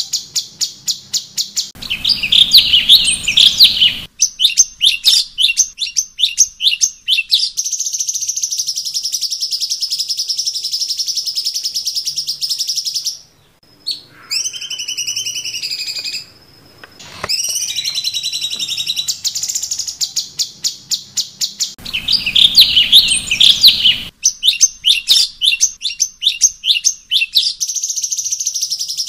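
Cucak cungkok songbird singing loud, rapid runs of high chirps and trills in a varied song, with a brief pause about halfway through that holds a few gliding whistles, then the same song phrases again.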